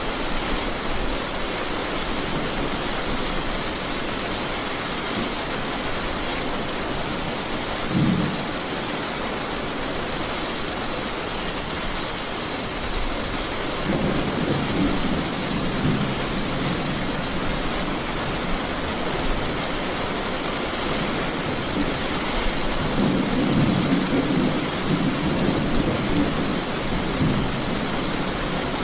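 Steady rain hissing, with thunder rumbling low: a short rumble about eight seconds in, then longer rolls of thunder around the middle and again near the end.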